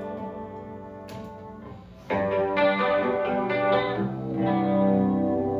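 Live band music led by a guitar through effects: a held chord fades for about two seconds, then louder, fuller playing comes in suddenly as the song begins.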